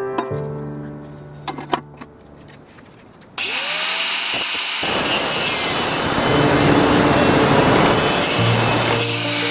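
Angle grinder switched on about three and a half seconds in, its motor spinning up with a rising whine, then cutting with a loud, steady grinding noise from about five seconds in.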